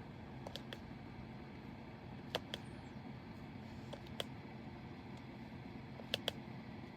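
Light clicks and taps of a diamond-painting pen picking up resin drills and pressing them onto the sticky canvas, mostly in quick pairs, a few seconds apart, over a steady low hum.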